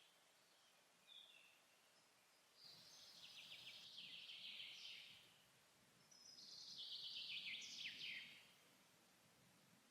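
A songbird singing in a forest: a short chirp about a second in, then two long, rapid trilled songs of about two and a half seconds each, heard faintly.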